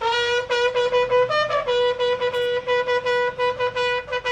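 A brassy horn tone sounding a rapid run of short blasts on one note, rising briefly to a higher note about a second and a half in.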